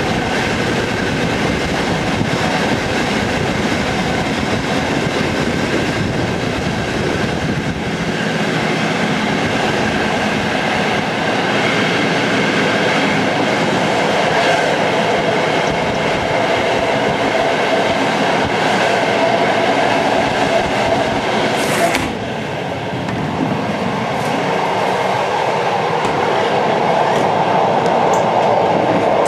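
Passenger train running with a continuous rail rumble and steady whining tones. There is one sharp knock about three-quarters of the way through, after which the sound briefly drops.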